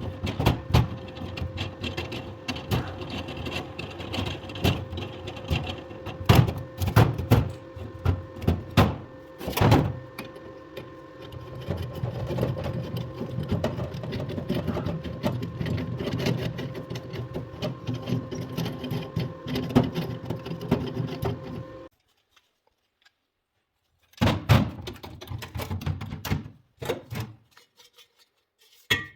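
A steady machine hum with many knocks and clicks over it; the hum cuts off suddenly about three-quarters of the way through, and a few more knocks follow.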